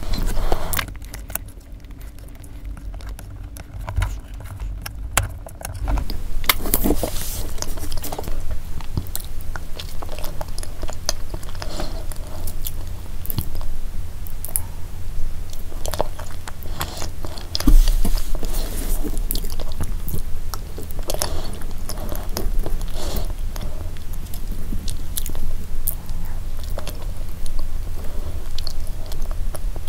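Close-miked chewing and lip-smacking of a soft cream dessert, with a plastic spoon scooping from a plastic box. It is quieter for the first few seconds, and there is a dull bump about eighteen seconds in.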